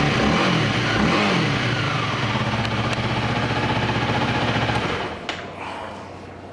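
Honda Rebel 300's single-cylinder engine running, revved up and down twice in the first two seconds, then idling until it is switched off about five seconds in, followed by a click.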